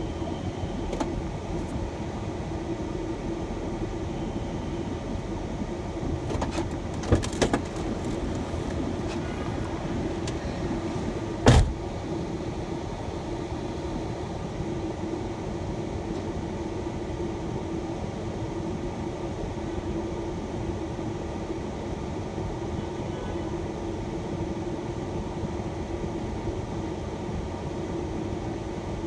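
Steady engine and road noise inside a shuttle van's cabin, with a constant low hum. A couple of short clicks come about seven seconds in, and a louder sharp knock follows a few seconds later.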